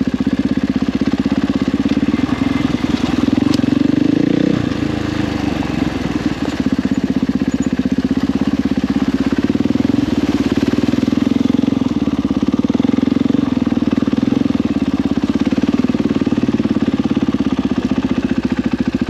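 Husqvarna FE450's 450cc single-cylinder four-stroke engine running through an FMF 4.1 exhaust, holding a steady speed with a brief dip in revs about four seconds in.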